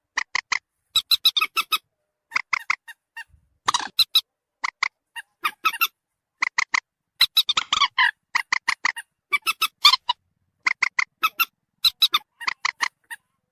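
Recorded calls of a common moorhen (mandar batu) used as a bird-trapping lure: short clipped notes in quick runs of three to five, about one run a second, with a few longer, harsher notes between them.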